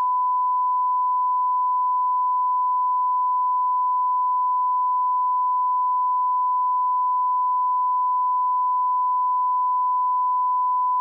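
Steady 1 kHz sine line-up tone at −18 dBFS, the reference alignment tone of a broadcast audio test signal, held at one unchanging pitch and level.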